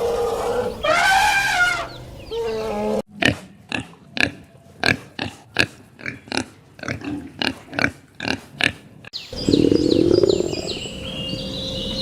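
A series of animal calls: a drawn-out pitched call about a second in, then a run of short, clipped grunts about three a second for some six seconds, then a louder, rougher call near the end.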